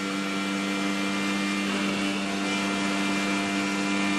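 A steady engine drone held at one pitch, with no rise or fall.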